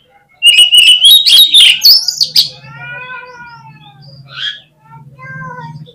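Oriental magpie-robin (kacer) singing: a loud burst of rapid, varied whistles and trills lasting about two seconds, followed by softer drawn-out notes.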